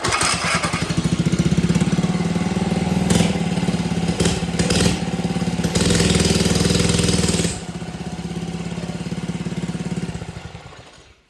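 Minibike's small engine running with a few short revs, settling to a quieter idle partway through, then slowing and dying out near the end, on a bike that keeps shutting off.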